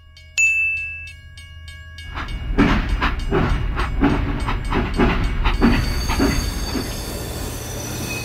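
Toy steam locomotive's chugging sound effect: a rhythmic chuff about twice a second that starts about two seconds in and eases off near the end. Before it come a short high beep and light regular ticking.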